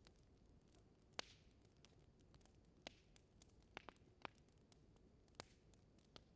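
Wood fire in a fireplace crackling quietly: scattered sharp pops and snaps, the loudest about a second in, over a faint steady hiss.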